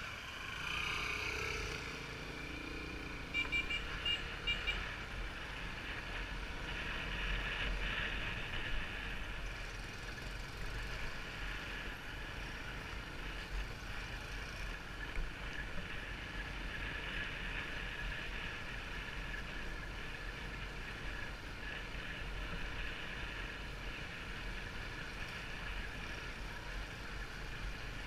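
Motorbike engine running steadily while riding, with a few short beeps about three to four seconds in.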